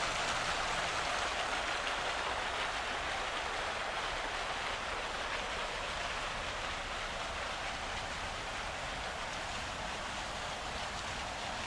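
Steady hiss of rain falling on wet city pavement, easing off a little over the seconds.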